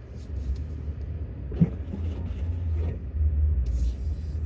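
Pickup truck engine and drivetrain rumbling low and steady from inside the cab while driving slowly on snowy road, with a single sharp knock about a second and a half in.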